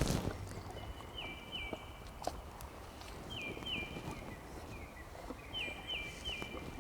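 Quiet outdoor ambience with a bird repeating a short falling call in quick groups of two or three, every second or two, and a few faint knocks.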